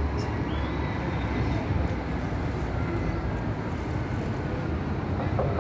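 Scania K440 coach running, a steady rumble of engine and vehicle noise with no distinct events.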